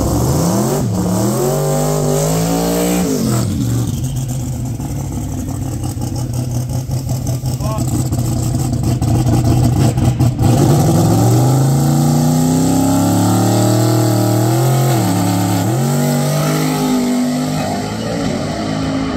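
Turbocharged drag-racing engine of a Toyota Hilux drag ute, revved up and down near the start and then settling to a steady low idle. Past halfway it climbs again, holds, and rises and falls a couple more times.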